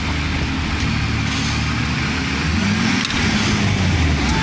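Truck engine running steadily, its pitch rising as it revs about two and a half seconds in, then easing back.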